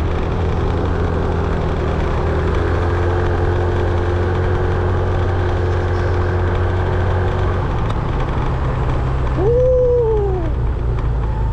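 Motorbike engine running steadily while riding, with road noise. About nine and a half seconds in comes a single brief pitched sound that rises and then falls.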